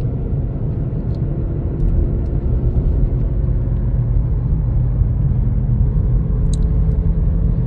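Steady low rumble of road and engine noise inside a car moving at highway speed. It cuts off abruptly at the end.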